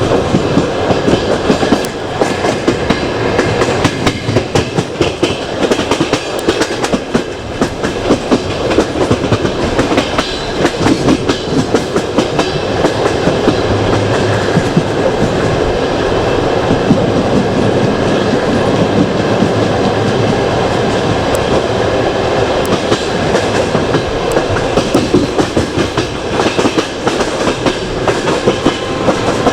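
Passenger train running at speed: steady rolling noise of the coach wheels on the rails with a constant irregular rattle of clicks and knocks from the track and the coach.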